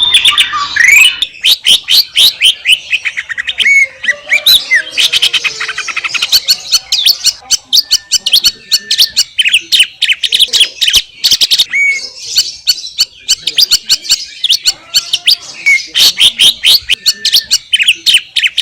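Green leafbird (cucak ijo) singing a fast, nearly unbroken stream of varied chirps, trills and sweeping whistles.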